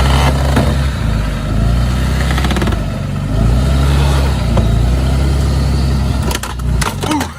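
Pickup truck engine revving hard under load, rising and falling. Near the end comes a quick run of knocks and cracks as the truck hits something.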